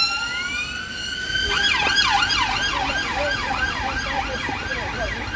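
Emergency vehicle siren passing: a held high wail that, about a second and a half in, switches to a fast up-and-down yelp, about three sweeps a second.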